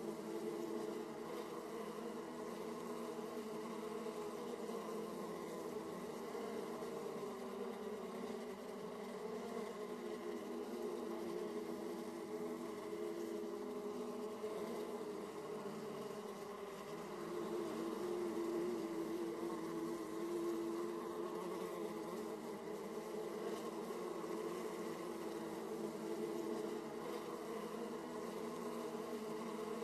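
Honeybees buzzing at a hive entrance: the steady hum of many bees flying in and out, swelling a little over the middle of the stretch.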